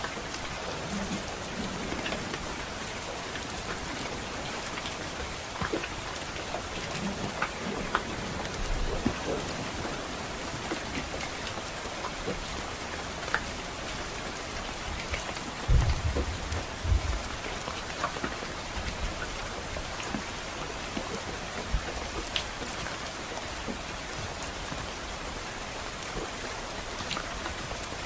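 Steady rain pattering on a roof, with scattered sharp crackles from a wood fire. A short low rumble comes about halfway through.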